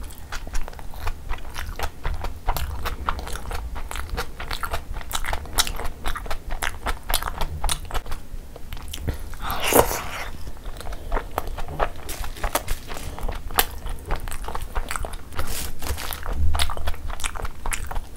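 Close-miked ASMR chewing of large chicken momos in spicy jhol gravy: wet, smacking mouth sounds with many quick clicks, and one louder, longer sound about halfway through.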